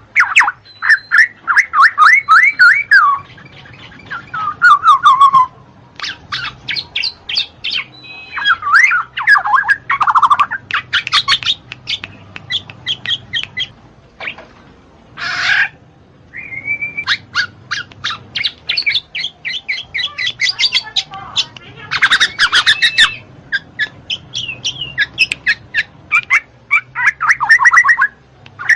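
Black-naped oriole (kepodang) singing a long, busy run of fast chattering phrases. Several runs of quick notes fall in pitch, and short pauses break up the song.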